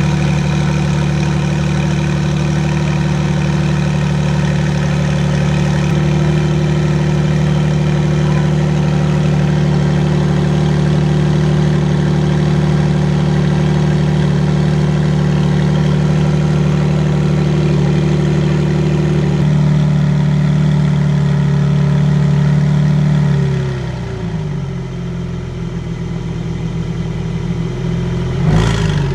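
Porsche 992 Turbo S twin-turbo flat-six with an Akrapovic titanium exhaust idling steadily at a raised idle, which drops lower and quieter about 23 seconds in. A short thump near the end.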